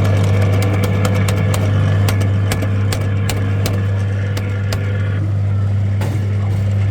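R.G. Mitchell pet ambulance kiddie ride running: a loud, steady low hum from the ride's motor and electrics, with a run of sharp clicks about three a second through the middle.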